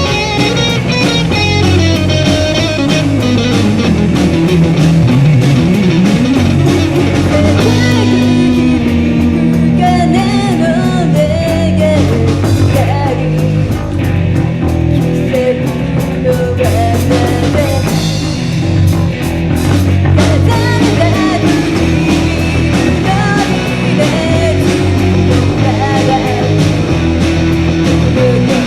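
Live rock band music with electric guitar, bass and drums, with singing in places.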